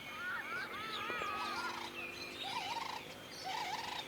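Several birds calling at once: many short, arching whistled notes and chirps overlapping, with a warbled phrase repeated about once a second in the second half.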